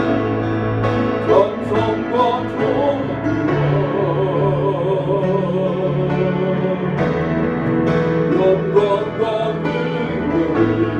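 Singing of a hymn with keyboard accompaniment: sung melody over sustained instrument notes.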